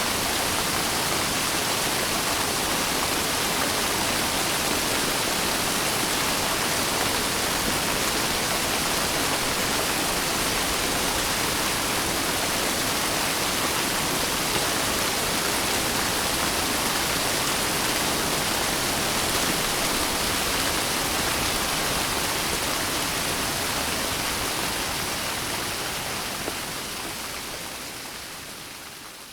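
Steady heavy rain, a dense even hiss, fading out over the last few seconds.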